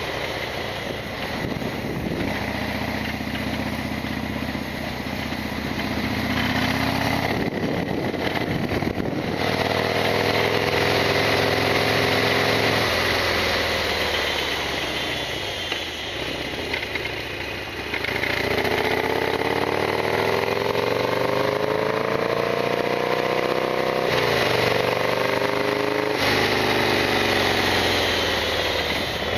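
Harley-Davidson Sportster XL1200R V-twin engine under way, pulling up in pitch through the gears with several brief dips at the shifts, over wind noise.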